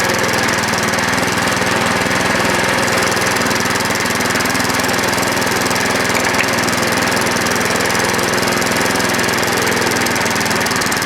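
A 1990s 7 hp Tecumseh single-cylinder small engine running steadily at an even speed, with no change in pitch or level.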